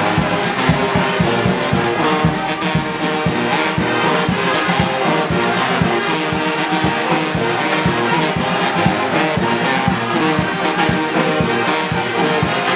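Brass band playing music with a steady beat, trombones and trumpets to the fore.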